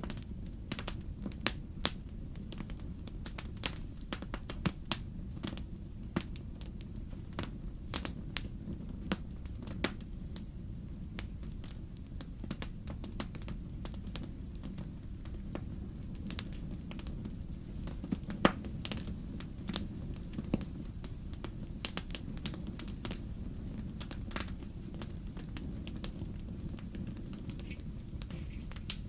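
Wood fire in a fireplace crackling, with many irregular sharp snaps and a few louder pops over a steady low rumble of the flames.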